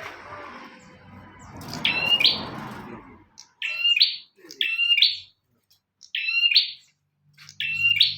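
Prenjak (prinia) calling: five short, sharp chirps about a second apart.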